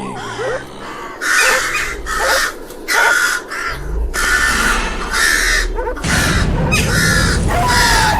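Crows cawing over and over: about ten harsh, rasping caws in quick succession, with a low rumble underneath from about halfway through.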